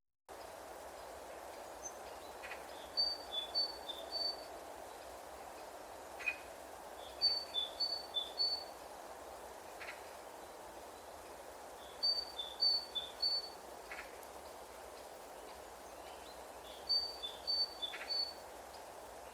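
A songbird singing a short phrase of a few quick high notes, repeated four times about every four to five seconds, over a faint steady background hiss.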